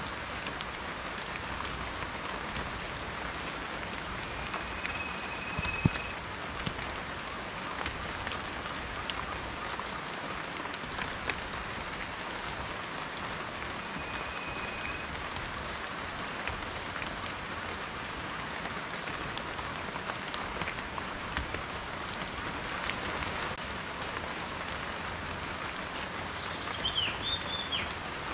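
Steady rain with individual drops ticking throughout, one drop striking louder about six seconds in. A few short, faint, high whistled notes sound over it, and a brief wavering high call comes near the end.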